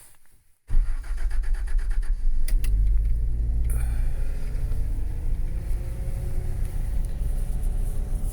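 Toyota FJ60 Land Cruiser's 2F inline-six started cold with the choke nearly all the way out: the starter cranks it for about two seconds until it catches, then it runs at a steady choked fast idle, its pitch creeping slowly upward.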